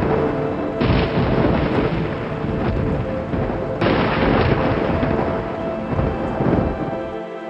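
Thunder rumbling over steady rain, with faint sustained music tones beneath.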